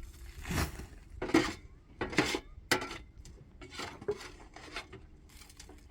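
A series of sharp clinks and knocks from things being handled, about six over a few seconds, the loudest about a second and a half in.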